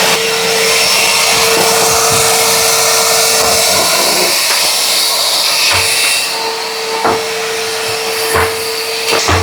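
Cylinder vacuum cleaner running steadily just after being switched on: an even rushing hiss with a steady whine from the motor, a little quieter from about six seconds in, with a few light knocks in the second half.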